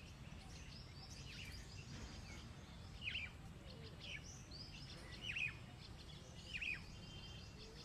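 Birds calling: a continuous chatter of small birds, with a louder call repeated three times about a second and a half to two seconds apart. A low steady rumble lies underneath.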